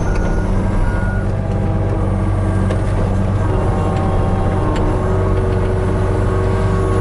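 Hitachi 35U mini excavator's diesel engine running steadily under hydraulic work, with a whine that shifts in pitch, and a few short high beeps about a second in.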